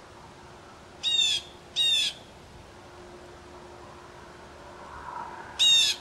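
Bird calls: three short rolling calls, two close together about a second in and a third near the end, each a quick run of high, falling notes.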